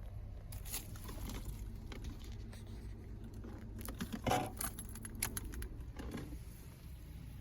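Car keys on a keyring jangling with scattered light clicks, loudest in a short rattle about four seconds in.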